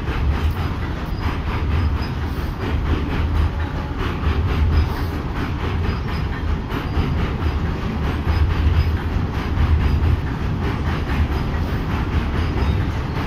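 Two trains running past at once: an Indian Railways passenger train of second-class coaches close by and a freight train of covered wagons. Their wheels make a steady rumble with rapid clicks over the rail joints.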